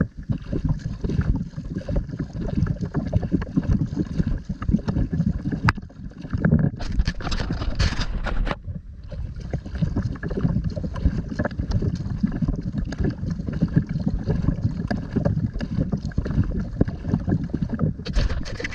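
Wind buffeting the microphone over water sounds around a kayak, a rough, low rumble that keeps going, with a few louder, hissier bursts near the middle and again near the end.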